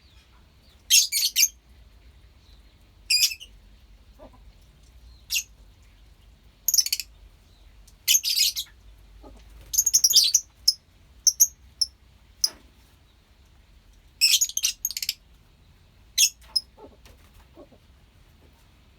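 A colony of lovebirds chirping: about a dozen short, shrill, high-pitched bursts scattered irregularly, some in quick rapid runs of several chirps.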